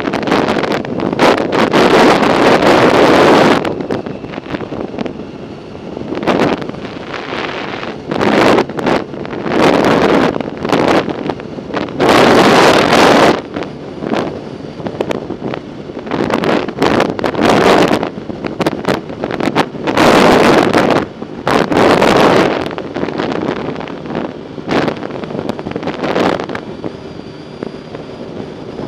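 Wind buffeting the microphone in irregular gusts, loud surges of rushing noise with brief quieter gaps between them, the kind of wind noise a camera picks up while riding a bicycle.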